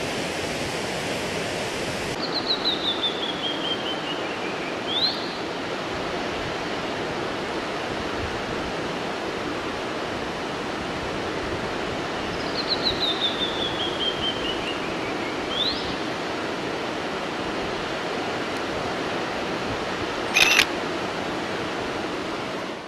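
Steady rushing roar of the Tamul waterfall's falling water. A bird twice sings a run of quick notes falling in pitch, each ending with a short rising note. A short sharp noise sounds about twenty seconds in.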